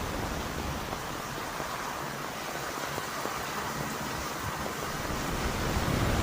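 Steady, even rushing noise like rain or surf, with no distinct drops or strokes. Its low rumble grows stronger near the end.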